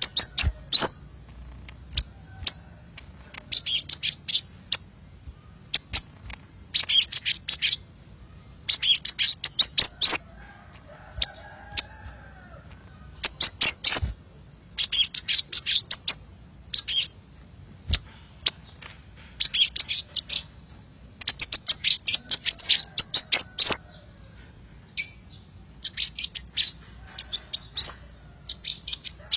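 Sunbird ('kolibri' in Indonesian bird-keeping) lure song: bursts of rapid, high-pitched twittering chirps, a burst every second or two with short gaps between. A faint steady high whine joins about halfway through.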